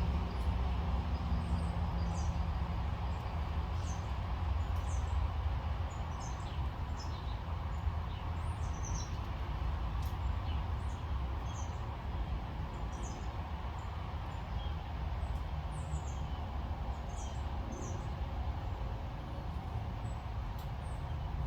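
Small birds chirping: short, high, falling chirps scattered irregularly throughout, over a steady low rumble.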